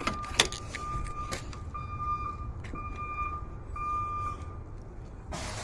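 A car's electronic warning chime beeping steadily, about one half-second beep a second. A couple of sharp clicks fall early on, and there is a brief burst of noise near the end.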